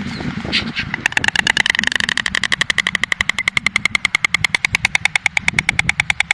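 A stork clattering its bill: a long, fast, even rattle of hard clacks, about ten a second, starting about a second in.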